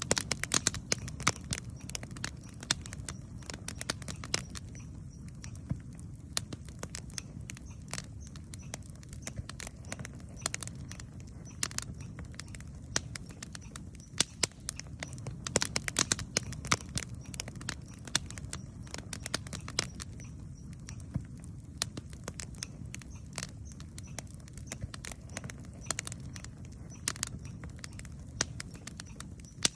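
Wood campfire crackling, with sharp pops at irregular intervals, a few louder clusters of them, over a steady low rumble.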